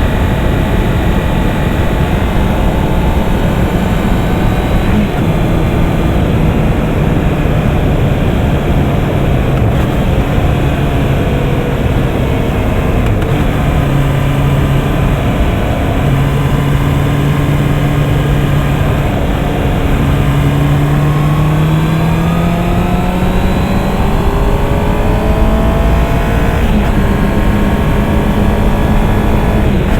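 Honda CB650R's inline-four engine running under way. Its note holds fairly steady, climbs smoothly for several seconds about two-thirds of the way through as the bike accelerates, then settles at a higher pitch, over a heavy low rush of wind noise.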